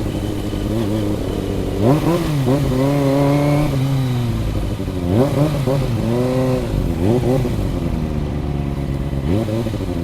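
Kawasaki ZX25R inline-four motorcycle engine on the move, its revs climbing sharply and dropping back four or five times as the bike accelerates and shifts.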